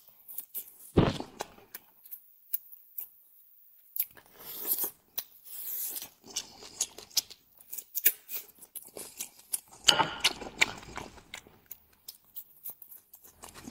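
Close-miked eating: a person biting and chewing food, with irregular wet clicks and crunches. There is a sharp bite about a second in, and a busier spell of chewing near the end.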